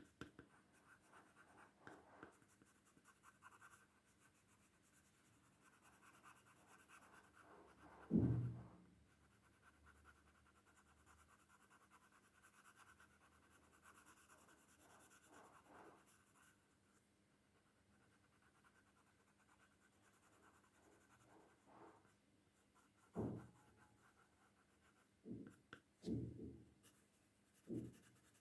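Faint scratching of a coloured pencil stroking over paper as outlines are darkened, with a few soft knocks, one about a third of the way in and several near the end.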